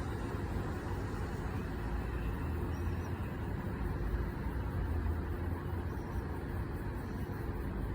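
Steady low vehicle rumble with a faint steady hum, swelling slightly in the middle.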